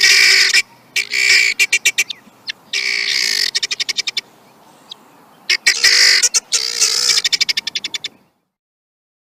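Helmeted guinea fowl calling: loud bouts of rattling calls broken by runs of quick clicking notes, about ten a second, stopping abruptly about eight seconds in.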